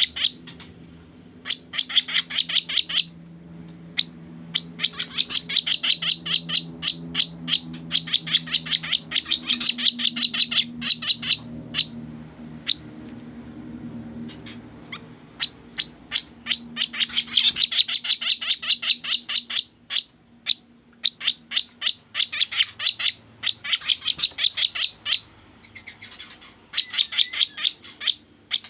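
Kaso-kaso bird lure call: long runs of rapid, harsh chattering notes repeated many times a second, broken by short pauses. A faint low hum sits underneath in the first half.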